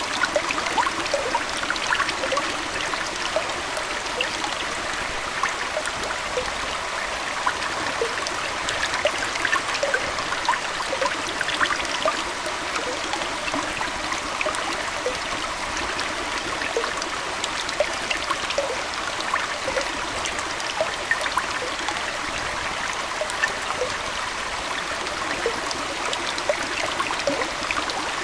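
Aquarium water trickling and splashing steadily, with many small plinks and gurgles scattered through an even rush of water.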